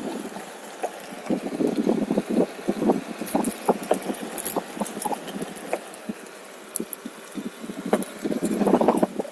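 OneWheel electric board rolling along a nature-trail path: irregular crackling tyre noise with many scattered clicks and knocks, swelling in rough patches.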